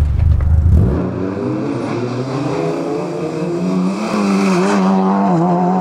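For about a second a rally car's engine rumbles low. Then a small Fiat Cinquecento rally car's engine is held at high revs, its pitch wavering slightly as it slides across wet grass.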